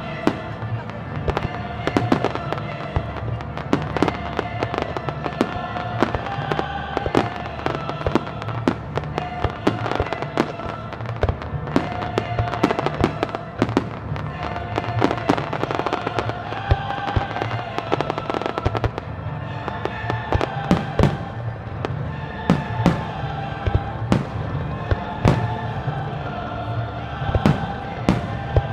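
Starmine fireworks barrage: shells bursting in rapid succession, a dense run of sharp bangs and crackles, over music with held melodic notes and a low steady bass.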